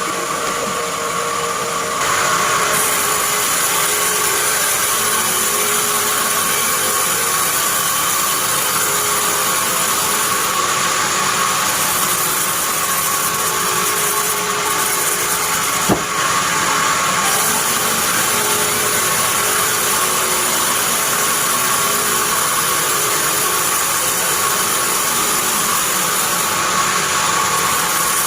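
Band sawmill sawing a pine log: a steady, loud hiss of the blade with a constant high whine, getting louder about two seconds in, and one sharp click a little past halfway.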